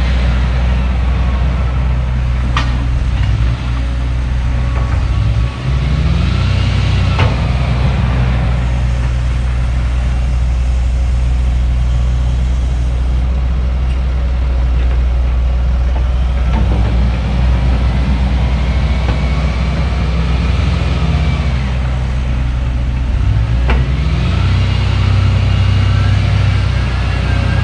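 Diesel earthmoving machinery working a basement dig, an excavator and a loader: engine running steadily under load, its pitch dipping and rising several times as the machine works, with a few sharp knocks along the way.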